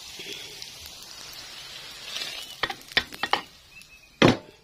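Spice paste frying in oil in a wok, a steady sizzle, then a run of sharp metal knocks and one loud clank near the end.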